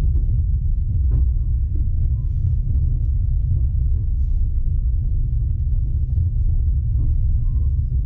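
Passenger train in motion: a steady low rumble, with a couple of faint knocks about a second in and near the end.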